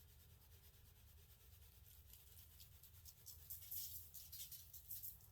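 Faint, irregular scratchy shaking of a garlic powder shaker sprinkling onto raw chicken, starting about two seconds in over a near-silent room hum.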